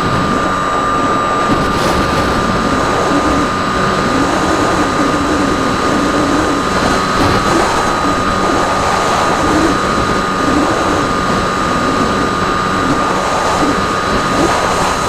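RC plane's motor and propeller running steadily in flight, a constant high whine over rushing airflow noise.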